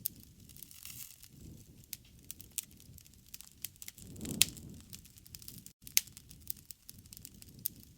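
Wood fire crackling with irregular sharp pops over a soft low rumble; one louder pop with a brief swell of flame noise comes a little over four seconds in.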